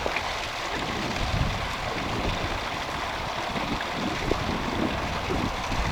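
Wind gusting across the microphone, with uneven low rumbles over a steady rushing noise.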